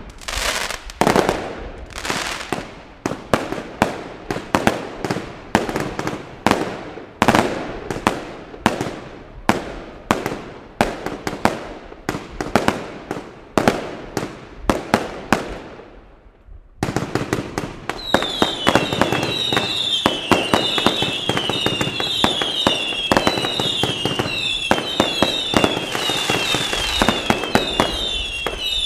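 Aerial fireworks bursting in quick succession: sharp bangs, several a second, each with a short ringing tail. About seventeen seconds in the sound changes abruptly to a denser, steadier volley of bangs. Over it a high whine falls in pitch and repeats about one and a half times a second.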